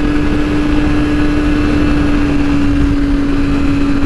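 2008 Yamaha R6 inline-four engine running at a steady pitch while riding, with wind rushing over the microphone.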